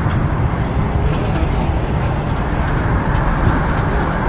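MTR East Rail Line R-Train, a Hyundai Rotem electric multiple unit, running at speed through a tunnel, heard from inside the passenger car: a steady, loud low rumble of wheels on rails.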